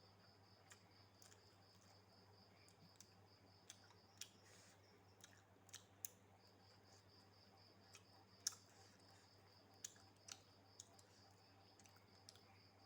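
Quiet scattered clicks and smacks of eating at close range, the loudest about eight and a half seconds in. Behind them a cricket chirps in a steady fast pulse, pausing briefly near the middle.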